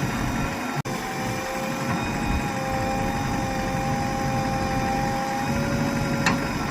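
JCB 3DX backhoe loader's diesel engine running steadily, with a steady whine at several pitches over the engine noise. The sound cuts out for an instant about a second in.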